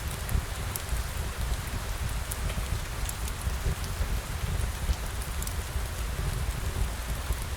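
Steady rain: an even hiss over a low rumble, with scattered small high ticks of drops.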